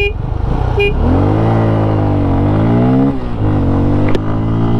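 Bajaj Pulsar N250 and NS200 single-cylinder engines revving hard as the two motorcycles accelerate in a drag race. The engine pitch climbs, drops sharply at a gear change about three seconds in, then climbs again.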